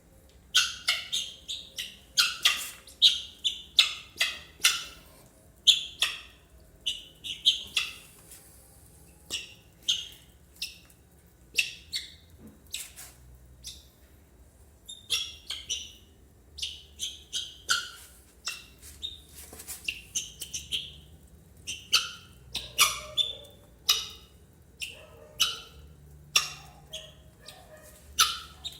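Helmeted guineafowl calling again and again: short harsh calls in quick runs, the cry known in Brazil as "tô fraco".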